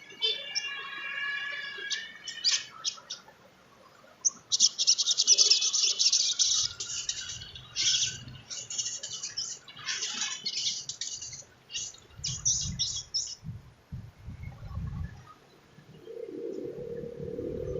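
Sunbird song: a rapid, high twittering chatter with trills, densest through the first two-thirds. Low rumbling noises come in the second half.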